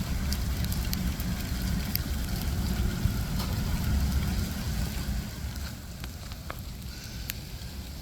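Rain mixed with ice pellets pattering, with scattered sharp ticks of ice striking, over a low rumble that eases off about five seconds in.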